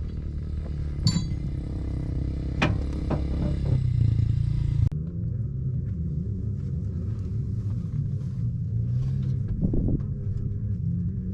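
Steady low mechanical rumble, with a few sharp knocks in the first few seconds. About five seconds in the sound changes abruptly, the higher sounds dropping away, and the low rumble carries on.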